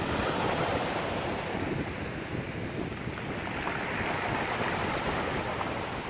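Sea surf washing onto the shore, swelling twice, with wind buffeting the microphone.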